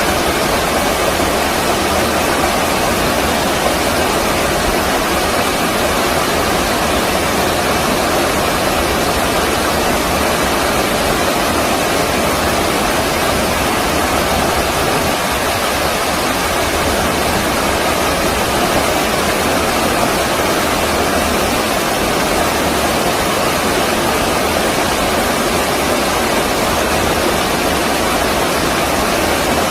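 Stream water rushing steadily, one even noise without breaks or changes.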